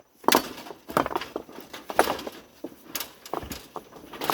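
A series of irregular knocks and clatters, sharp and uneven in spacing.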